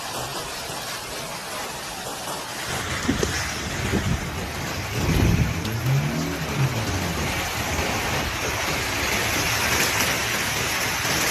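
Steady rushing noise of heavy rain and water, growing louder about three seconds in, with a few low wavering tones in the middle.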